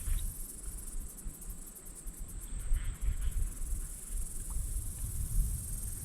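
Insects trilling steadily in one high, even drone, over a low, uneven rumble.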